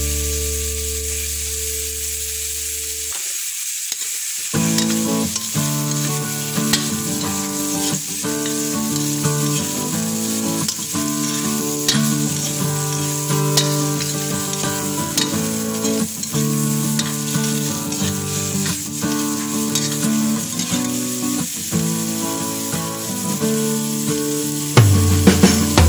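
Carrot strips and vegetables sizzling in hot oil in a wok, stirred with a spatula that scrapes now and then; the sizzle gets louder near the end as sliced green beans go in. Background music plays over it from a few seconds in.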